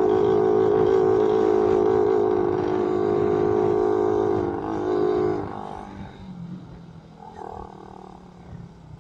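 Suzuki Raider 150 motorcycle engine running at a steady high engine speed while riding, its note holding one pitch. About five and a half seconds in the sound drops away sharply to a much quieter, lower run.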